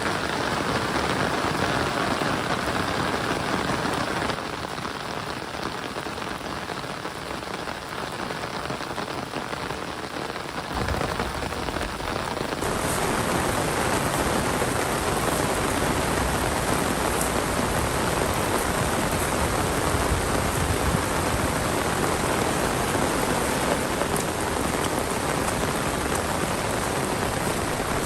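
Heavy monsoon rain pouring down, a dense steady hiss and patter. It drops a little in level about four seconds in and comes back fuller around eleven to thirteen seconds.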